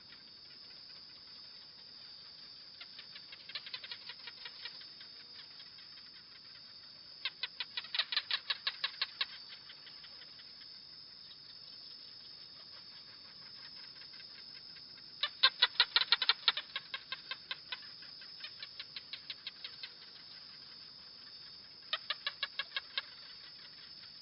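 A gecko chirping in repeated runs of quick, sharp chirps, about eight to ten a second, each run lasting a second or two, with the loudest run about two-thirds of the way through. A faint steady high hiss lies underneath.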